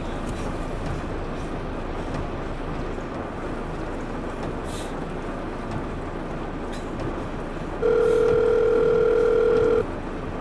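A telephone ringback tone, heard through the handset, sounds once for about two seconds near the end: the number is ringing at the other end and nobody has picked up. Under it is a steady low hiss.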